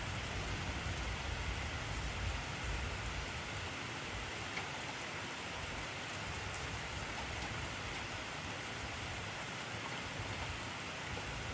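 Heavy rain falling steadily, a dense even hiss of countless drops on surfaces. A low rumble underneath fades out a few seconds in.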